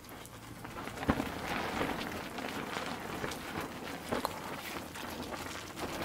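Spaghetti being stirred and tossed in a small metal camping pot on a camp stove: a steady crackling sizzle with sharp clicks of the utensil against the pot, the loudest about a second in.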